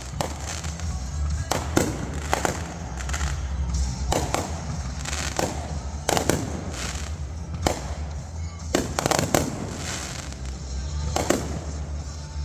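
Consumer fireworks going off at close range: a string of sharp bangs, about ten spread irregularly a second or more apart, with crackling in between.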